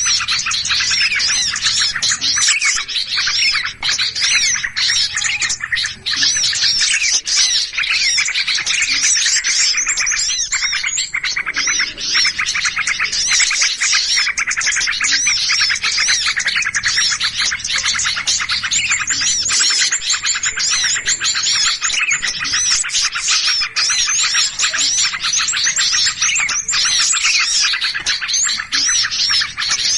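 Dense, unbroken chorus of many small songbirds chirping and chattering at once, agitated and noisy: the kind of bird-lure call recording meant to draw in all sorts of small birds.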